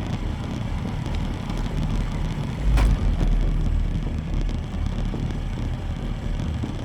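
Haojue NK 150 motorcycle riding slowly over loose sand and gravel, a steady low rumble of engine and tyres with wind on the microphone. A single sharp knock about three seconds in is the loudest moment.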